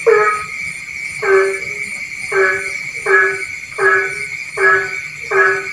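Rice-field frogs calling at night. One frog gives seven short croaks, roughly one every three-quarters of a second, over a steady high-pitched background chorus.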